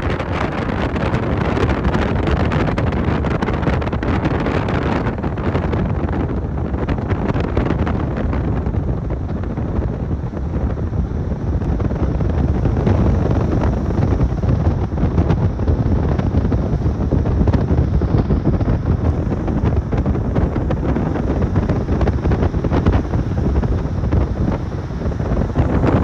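Wind buffeting the microphone: a steady, loud rumbling noise, its hiss thinning out about six seconds in.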